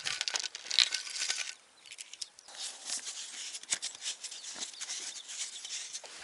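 Irregular rustling and small clicks of fishing tackle being handled while a feeder rod is set up, with a brief quieter pause about two seconds in.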